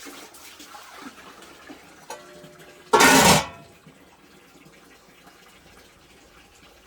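Water running or trickling steadily, with a sudden loud burst of noise lasting about half a second in the middle, just after a brief clink.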